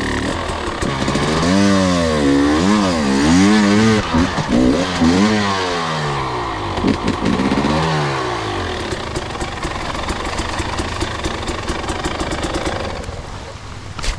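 Two-stroke enduro dirt bike engine revving, its pitch swinging up and down about once a second as the throttle is worked. It then runs more steadily and drops away near the end.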